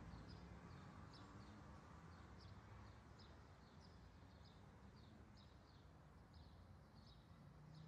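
Near silence: faint outdoor ambience with a bird chirping over and over, short high chirps about two or three a second.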